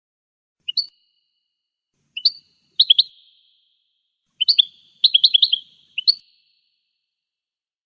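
Goldfinch song in short, separate bursts of quick, sharp, high chirping notes, with a longer run of rapid notes past the middle.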